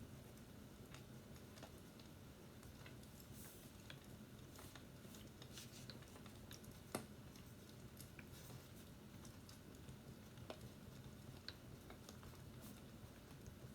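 Faint fireplace crackling: scattered irregular pops and snaps over a low steady hum, with one sharper pop about seven seconds in.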